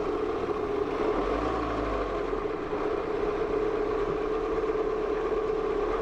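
A car driving slowly with its engine running, heard as a steady, unbroken hum.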